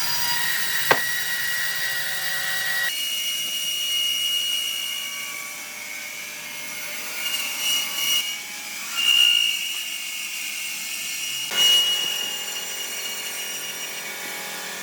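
Woodworking power tools running and cutting wood, with a steady high whine. There is a sharp knock about a second in, and the cutting grows louder several times further on. The whole sound changes abruptly about three seconds in and again near the end.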